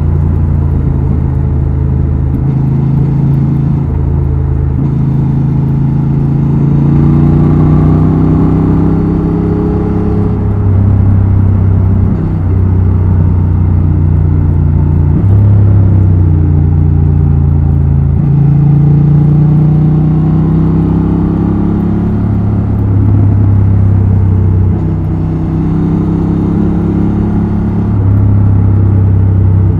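Honda XL750 Transalp's parallel-twin engine and exhaust under way, rising in pitch as it pulls and dropping abruptly at each gear change, several times over.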